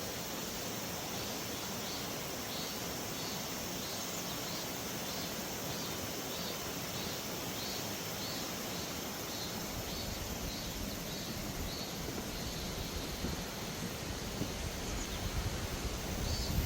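Mountain stream water rushing steadily, with a quick series of high chirps, about two a second, for the first few seconds. About ten seconds in, a low rumbling noise builds up on top, louder near the end.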